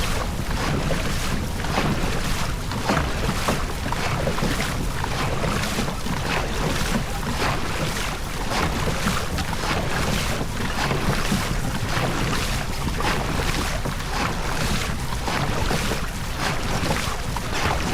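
Wind buffeting the microphone, with water rushing past the hull of a moving boat.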